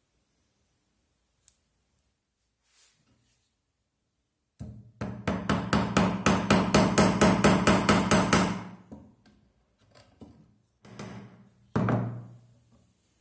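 A quick, even run of about twenty sharp knocks, roughly six a second, for about four seconds, then a few single knocks.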